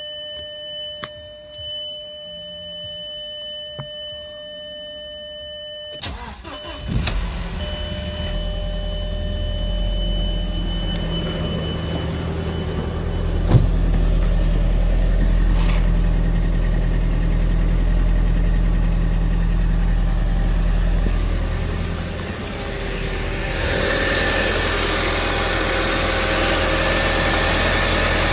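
A steady electronic tone, then about six seconds in the 2001 Audi A4's 1.8-litre turbocharged four-cylinder cranks briefly and catches. It is a cold start after six months of storage, through a gutted catalytic converter. The engine settles into a steady idle, heard near the end from the open engine bay with more hiss.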